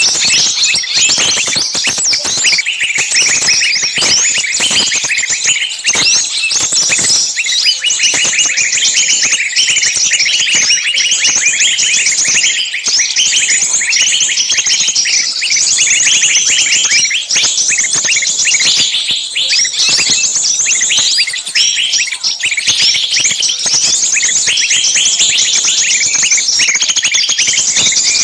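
Dense chorus of many small birds chirping and chattering at once, a continuous overlapping tangle of short high calls.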